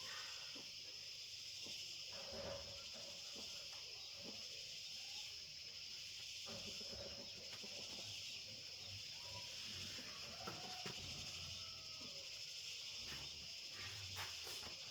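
Steady, faint chorus of insects such as crickets or cicadas, a high-pitched drone, broken by scattered light clicks and knocks.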